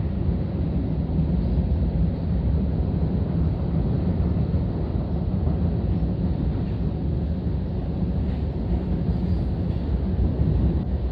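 Norfolk Southern train rolling across a railway bridge: a steady, deep rumble that holds even throughout.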